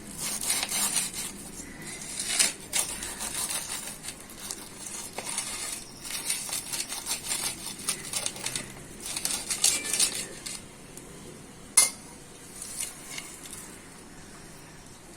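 A knife cutting through crisp deep-fried bread-and-cheese bites: crunching and crackling in bursts, with the knife clinking on the plate, and one sharp clink about twelve seconds in.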